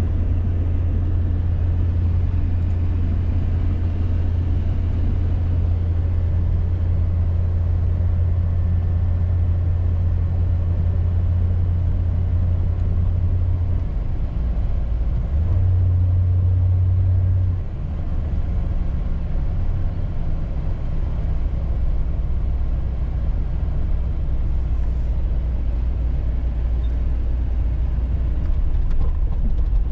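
Steady low engine and road drone of a 1989 Chevy G20 van driving, heard from inside the cabin. The drone shifts pitch a couple of times about halfway through, then settles lower.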